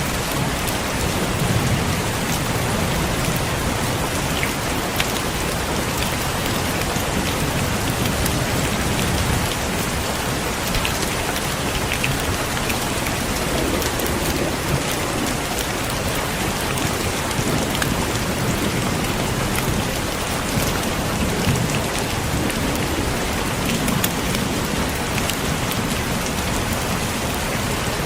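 Heavy, steady rain falling, dense pattering of drops, with faint low rumbles of distant thunder swelling now and then.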